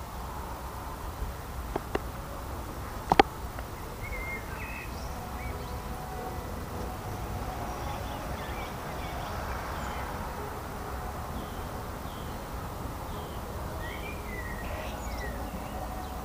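Small birds chirping now and then, in short calls around four to five seconds in and again near the end, over a low steady background rumble. A sharp click about three seconds in, with a fainter one just before it.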